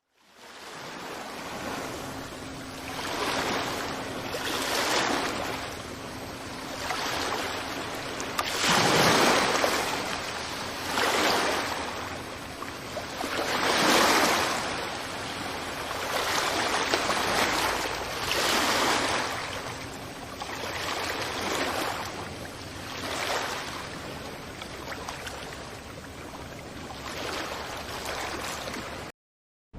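Ocean waves breaking on a beach: a continuous surf wash that swells and recedes every two to three seconds, some breakers louder than others.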